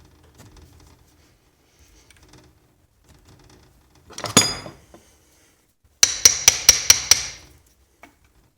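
Hammer striking metal vise parts: one loud ringing blow about four seconds in, then six quick blows at about five a second near the end.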